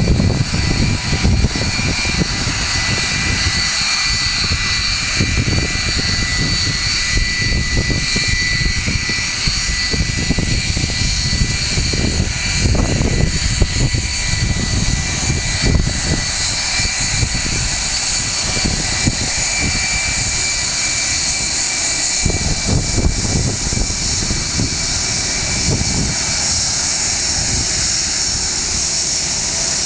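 Boeing 757 twin turbofan jet engines running with a steady high whine, while strong wind buffets the microphone in gusty low rumbles.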